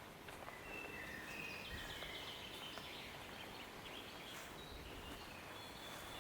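Songbirds singing faintly: a run of short high notes and a quick trill in the first half, fading after, over a steady soft hiss.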